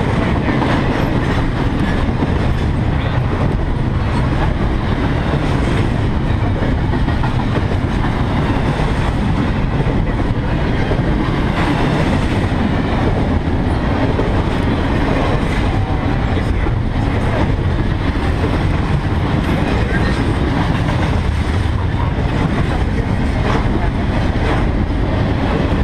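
CSX intermodal freight train rolling past: a steady, loud rumble of the cars with faint clacks of wheels over the rail joints.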